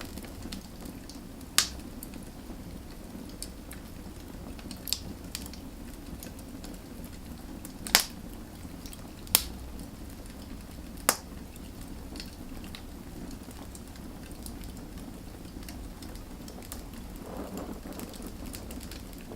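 Wood fire burning: a steady low rush with scattered sharp crackling pops, four of them loud, from the first few seconds to just past the middle.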